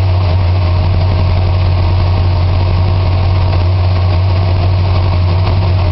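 1978 Chrysler New Yorker Brougham's 400 cubic-inch Mopar B-block V8 idling steadily on choke at a high fast idle just after a cold start, with a little shake to it until the choke comes off.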